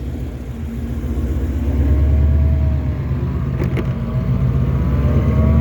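2020 Shelby GT500's supercharged 5.2-litre V8, fitted with a Whipple supercharger and Borla exhaust, idling with a steady low rumble that grows louder about two seconds in.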